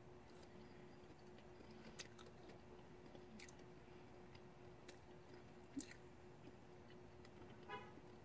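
Faint chewing of a soft chocolate-bottomed marshmallow Peep, with a few soft mouth clicks over a steady low hum.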